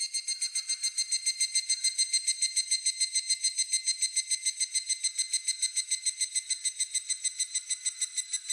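Higurashi (evening cicada) calling: a fast, even train of ringing, high-pitched pulses, about eight a second.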